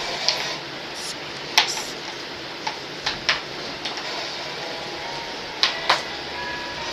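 Scattered light clicks and knocks, about seven in all, over a steady background hiss; a few of the knocks ring briefly.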